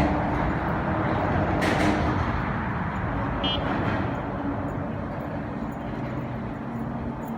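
Steady rumble of road traffic, with a brief high chirp about three and a half seconds in.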